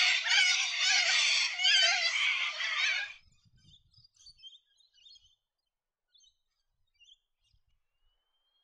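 Loud, dense chattering and chirping of birds with quick repeated notes, cut off abruptly about three seconds in. Only a few faint, scattered chirps follow, with a thin rising whistle near the end.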